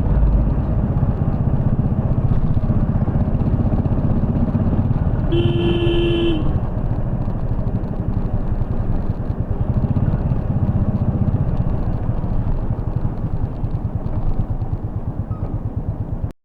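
Royal Enfield Bullet 350's single-cylinder engine running under way, its low steady thump heard from the rider's seat. A vehicle horn sounds once for about a second early in the middle. The sound cuts off suddenly at the very end.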